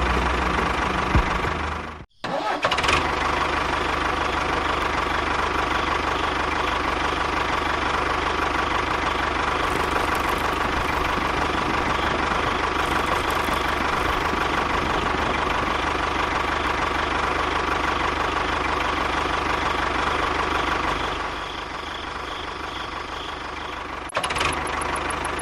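A motor running steadily with a constant whine. It breaks off briefly about two seconds in and gets quieter near the end.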